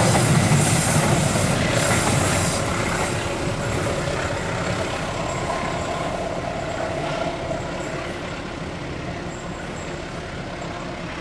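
Train running past and fading away, its rumble and wheel rattle dying down steadily.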